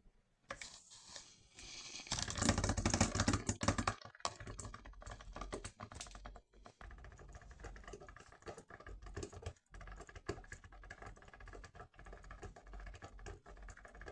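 Philips HD5108 drip filter coffee machine brewing: water hissing and sputtering through the heater, with a louder rush about two seconds in, then irregular crackling and popping.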